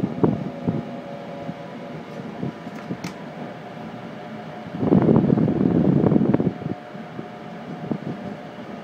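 Running noise of a passenger train heard from inside the carriage: a steady rumble of wheels on rail with a faint steady hum, a few light clicks, and a louder stretch of rumbling about five seconds in that lasts a second and a half.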